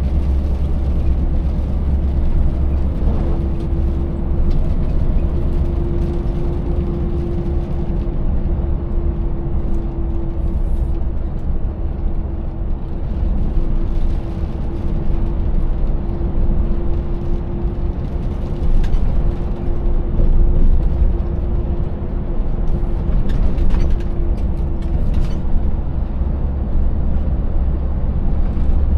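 Scania 590S truck's 16-litre V8 diesel running while driving, a steady deep drone with a steady whine above it. A few short knocks and rattles sound over it in the second half.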